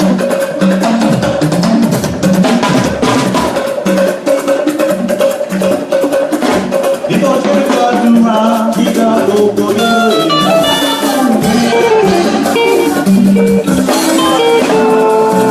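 Band music with drums and percussion and a plucked guitar line, playing a steady, busy dance beat.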